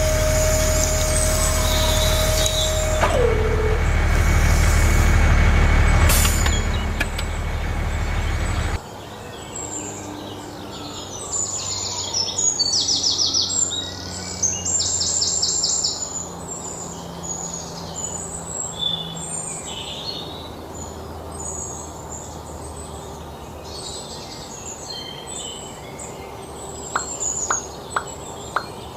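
A loud, steady machine drone with a whining tone that drops in pitch about three seconds in, cutting off abruptly. Then birds chirping and twittering over a quiet background, with a few sharp clicks near the end.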